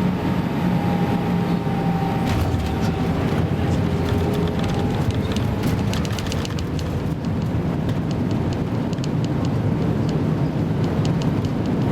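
Airbus A320 cabin noise during the landing: a steady, loud, deep roar from the engines and the air rushing past, with a run of quick rattling clicks from the cabin starting about two seconds in.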